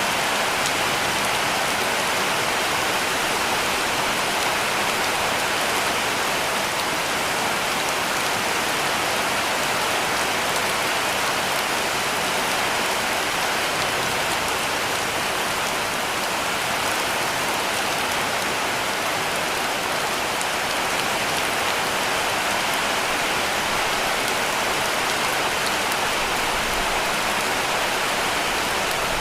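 Heavy rain falling on a cabin roof, a steady, dense patter with no breaks.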